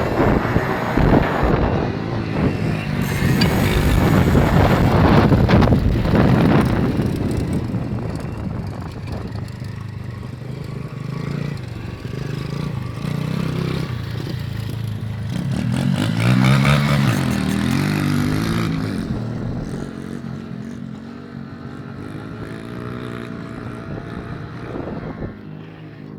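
Small motorcycle engine running as the bike is ridden, rising and falling in pitch with the throttle. It is loudest a few seconds in and again past the middle, where it revs up and down, then fades near the end.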